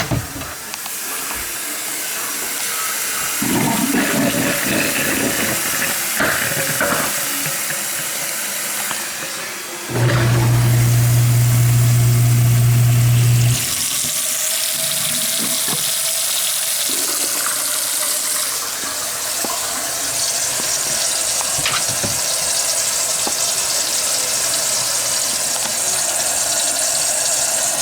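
Tap water running into a kitchen sink. About ten seconds in, a newly installed half-horsepower garbage disposal is switched on for a test run and runs with a loud, steady low hum for about three and a half seconds before shutting off, while the water keeps running.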